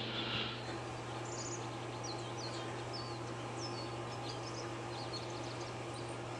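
Several short, high bird chirps in the background, with a steady low hum underneath; a hissing noise cuts off about half a second in.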